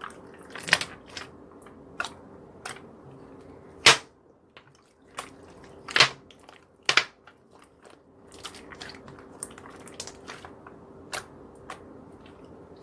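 Irregular sharp clicks and snaps, one or two a second, over a faint steady hum.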